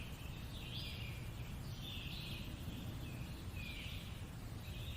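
Recorded nature ambience: a bird calling over and over in short, high chirpy phrases about once a second, some falling in pitch at the end, over a steady low rumble.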